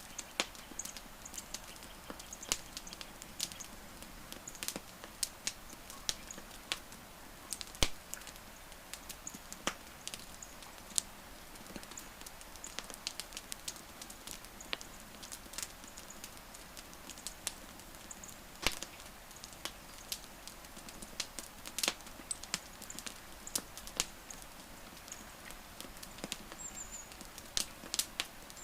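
Wood campfire crackling, with irregular sharp pops and snaps over a soft steady hiss, a few louder pops standing out.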